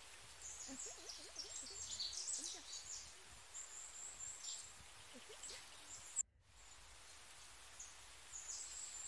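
Small birds chirping faintly with many short, high calls. A sharp click about six seconds in cuts the sound out for a moment.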